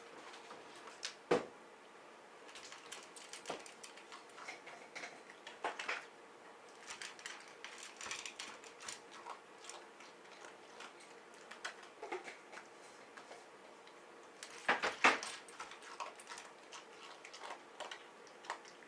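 Scattered light clicks and taps at an uneven pace, with a louder cluster of sharper knocks about fifteen seconds in.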